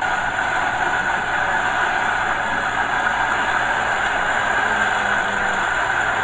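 Heavy diesel engine of earthmoving equipment running steadily, with a constant mid-pitched drone.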